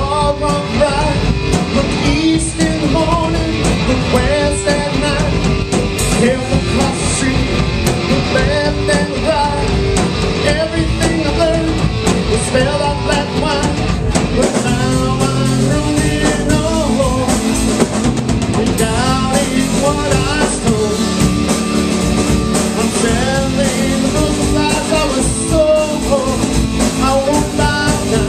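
Live rock band playing: a singer over electric guitar, bass and drum kit.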